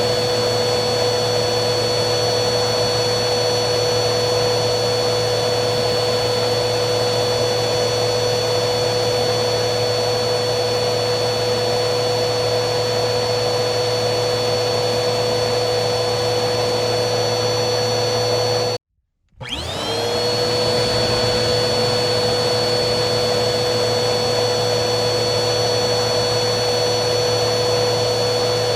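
Vacuum cleaner motor running steadily, a hiss of rushing air under a constant high whine. About two-thirds of the way through it cuts out abruptly for half a second, then whines back up to full speed within about a second.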